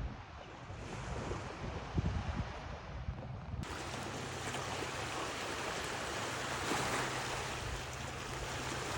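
Coastal wind and water noise, with wind gusting on the microphone in the first few seconds. About a third of the way in the sound changes abruptly to a steadier hiss with a faint low hum underneath.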